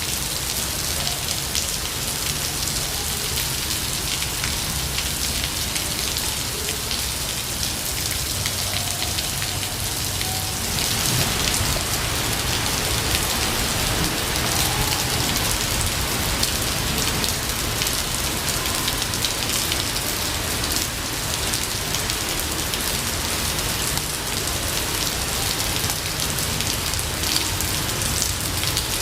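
Steady rain falling in a forest, pattering as an even hiss, growing a little louder and brighter about ten seconds in.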